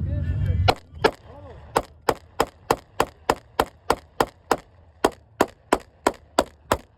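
Semi-automatic firearm fired in rapid succession, about eighteen sharp shots at roughly three a second, as the magazine is emptied. A low steady rumble cuts off abruptly just before the first shot.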